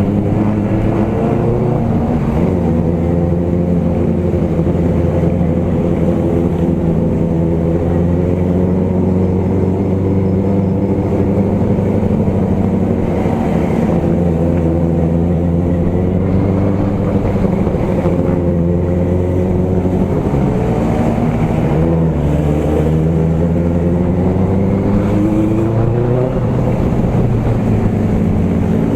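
Motorcycle engine running while riding, its pitch rising and falling repeatedly with the throttle and gear changes.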